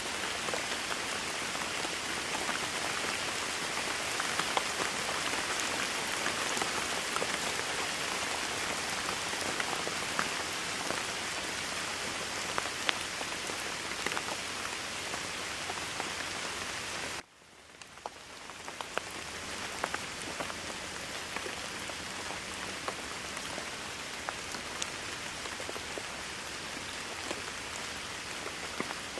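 Steady rain falling, with scattered sharper drop ticks over an even hiss. About 17 seconds in, the sound drops out abruptly and fades back up over a couple of seconds.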